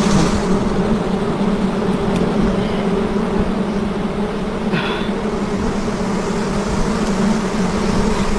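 Swarm of wild honeybees buzzing around their comb, a steady, dense hum.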